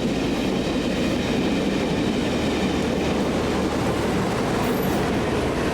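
A train moving along the track: a steady, unbroken rumble with wheels running over the rails.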